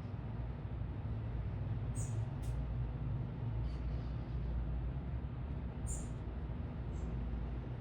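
A few short, very high chirps from small birds, about two and six seconds in, over a steady low rumble of city traffic.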